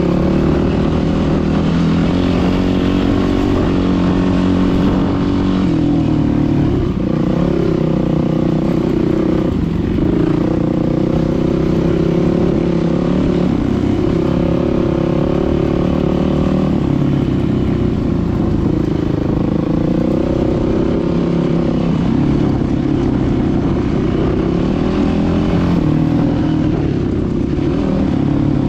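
Dirt bike engine running under way, its pitch rising and falling continuously as the throttle opens and closes.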